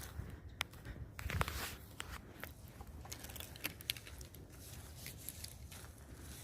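Faint, irregular crackling and rustling, with several sharp clicks in the first two seconds.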